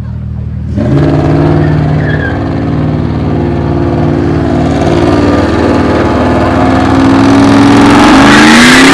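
A car engine idling, joined about a second in by a louder nearby car engine running steadily. Near the end it revs up with a rising pitch.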